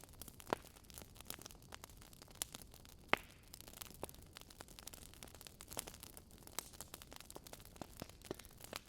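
Burning wood logs crackling: irregular sharp pops and snaps over a soft hiss, the loudest pops about half a second and three seconds in.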